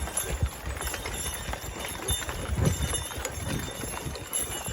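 Hooves of a team of Belgian draft horses thudding irregularly on the soil as they walk, pulling a plough.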